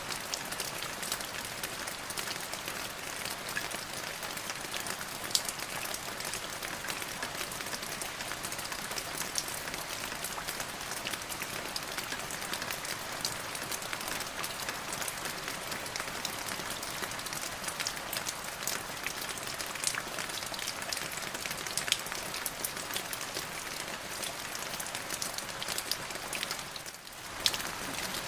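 Steady rain falling, with many individual drops landing in sharp ticks over an even hiss. The sound dips briefly near the end.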